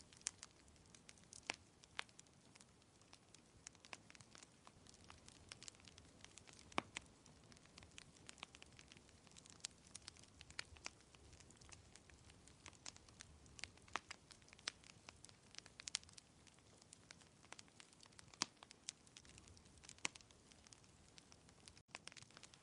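Wood fire crackling: frequent irregular sharp pops and snaps over a faint steady hiss of rain. The sound cuts out for an instant near the end.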